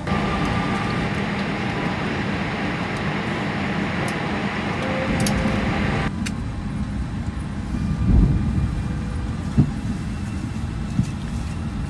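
Airport apron noise around a parked airliner: a loud, steady rush with a low hum. About six seconds in it suddenly turns duller and quieter, leaving a low rumble with a thump and a couple of knocks.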